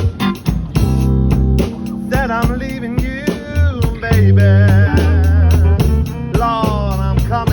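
Band playing a slow blues: a lead electric guitar plays bent, wavering notes over bass guitar and drums.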